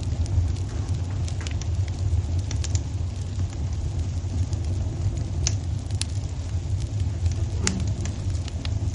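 Wood fire burning in a fireplace: a steady low rumble with scattered sharp crackles and pops, the strongest pop about three-quarters of the way through.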